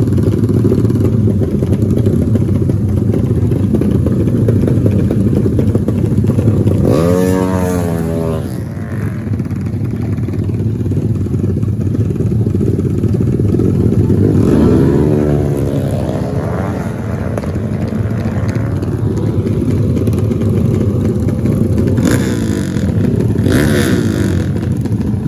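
Racing motorcycle engines running hard, with the engine note sweeping in pitch as bikes rev or pass about seven seconds in and again around fifteen seconds in. Two short bursts of hiss come near the end.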